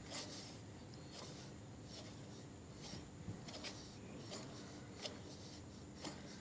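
Faint handling sounds: a few light clicks and some rubbing over a low, steady hum.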